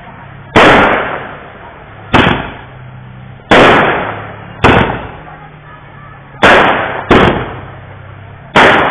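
Aerial fireworks bursting: seven sharp bangs at uneven gaps of one to two seconds, each trailing off over about a second.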